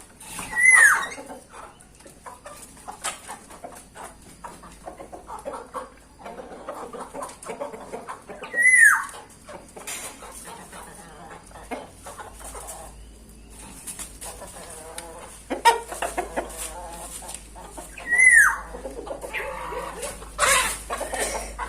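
Birds calling in an aviary: ongoing chirps and chatter, with three loud, short calls falling in pitch about every nine seconds.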